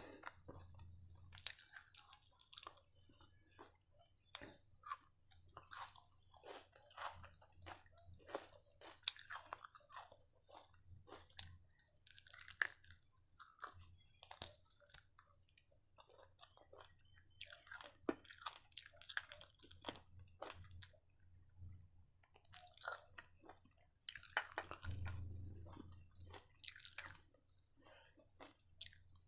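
A person biting into and chewing fried chicken kebab, with many short, irregular crunches.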